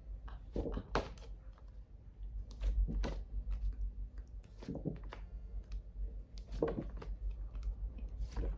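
A woman's voice saying short, isolated phonics sounds, each repeated in quick little groups about every two seconds over a low steady hum.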